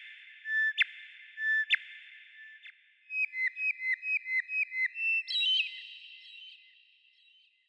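Bird song of clear whistled notes: three spaced notes, then a quick run of about ten short notes that climbs slightly, ending in a higher phrase. Each note trails off in an echoing tail.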